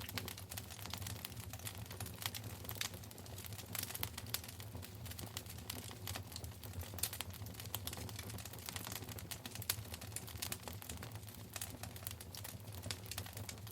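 Wood fire in a fireplace crackling and popping: many small irregular snaps over a low steady rumble of the burning logs.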